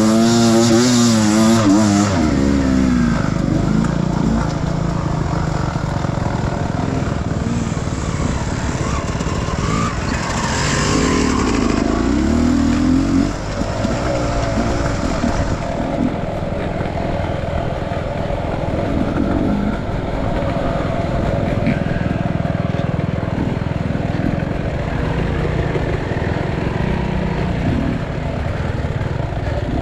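Off-road enduro motorcycle engine running under load, its pitch rising and falling with the throttle. It revs hard at the start and again a little before the middle.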